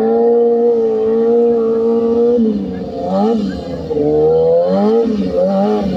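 Stunt motorcycle engine held at high revs for about two seconds, then revved up and down in several quick blips.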